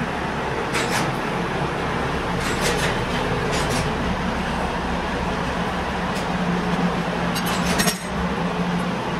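Light metallic clinks and ticks, a few at a time with a quick cluster near the end, over a steady mechanical hum.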